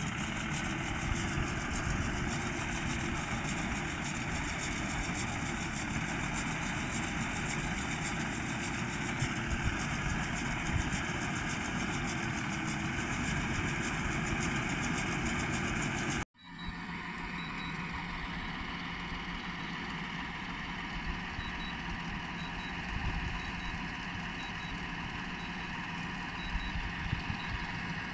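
Tractor engine running steadily while working with a paddy-straw collecting machine. About sixteen seconds in the sound cuts out for an instant and resumes with a changed tone.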